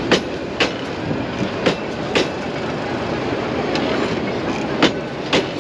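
Local passenger train running: a steady rumble with sharp clacks of the wheels over rail joints, coming in pairs about half a second apart, three pairs in all.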